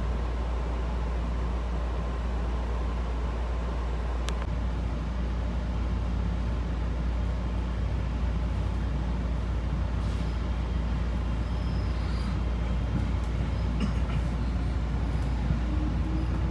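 Running noise heard inside a JR Shikoku 7200 series electric train car: a steady rumble of the train under way, with a single sharp click about four seconds in.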